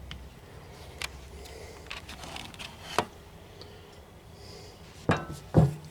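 Light clicks and scrapes of a hand tool working a seal out of a skid steer's hydraulic cylinder piston, with two louder metallic knocks near the end.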